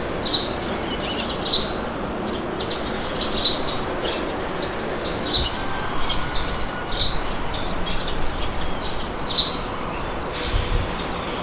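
Steady rushing wind noise, with small birds chirping in short high calls again and again over it.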